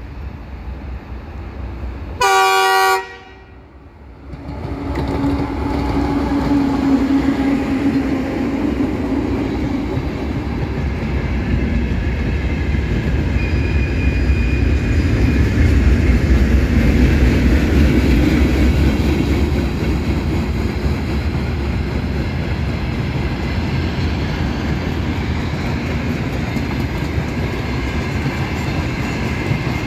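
An LDZ Cargo 2M62UM two-section diesel locomotive gives one short horn blast about two seconds in, then passes with its diesel engines running. Its freight wagons follow, rolling by with a steady rumble of wheels on the rails.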